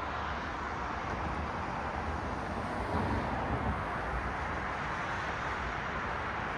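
Road traffic: a steady hiss of car tyres and engines on the street, swelling slightly about three seconds in as a car passes.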